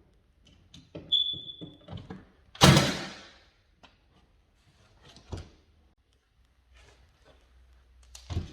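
Knocks and clatter of work on a wooden stair, with a short high squeak about a second in and one loud sharp bang about two and a half seconds in that rings on for about a second, then a single knock later.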